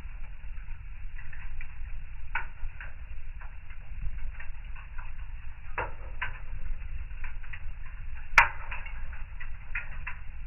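Wood fire crackling, with scattered snaps over a steady low rumble and one sharp loud pop about eight seconds in.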